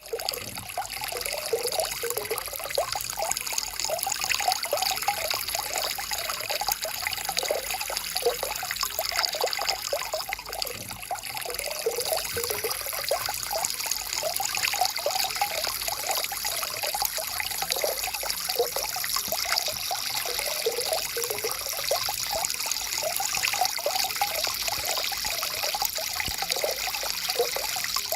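Stream water flowing and trickling steadily, with a continuous bubbling and splashing over stones.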